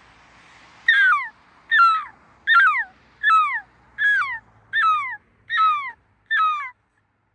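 A seagull calling in a series, eight loud calls about one every 0.8 seconds, each falling in pitch, before stopping near the end.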